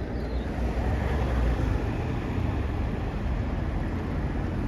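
Steady low rumble of road vehicles, with no sudden sounds.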